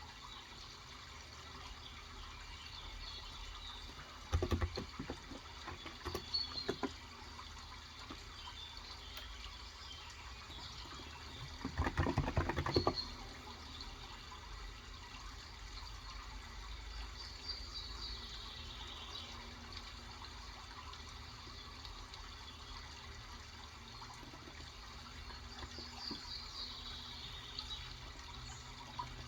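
Two short bursts of typing on a Cox Endeavour 35 g electrocapacitive keyboard, about four seconds in and again near the middle, over a steady sound of running water, with a few descending bird chirps in the second half.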